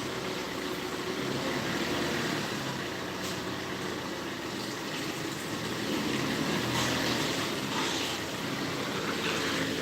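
Forklift engine running steadily with a continuous low hum.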